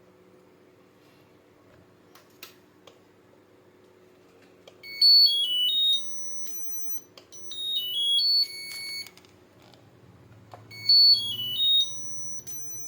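Whirlpool 6th Sense washing machine control board's electronic beeper playing its short chime tune of stepped high notes three times, a few seconds apart, as the repaired board is switched on and tested; a single click comes about two and a half seconds in.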